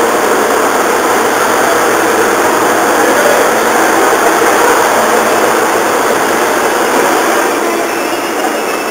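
Steady mechanical running noise, a hum under an even rush, from the HB-E300 series hybrid diesel-electric train standing at the platform.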